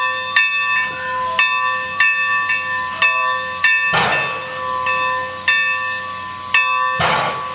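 Steam locomotive bell ringing steadily, about two strikes a second, over hissing steam. A louder rush of steam exhaust starts near the end.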